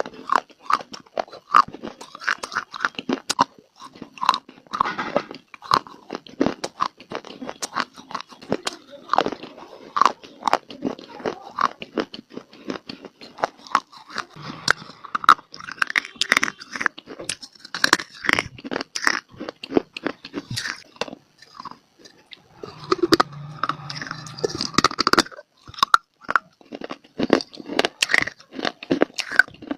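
Close-miked biting and chewing of hard baked clay (mitti): a dense run of irregular, sharp crunches.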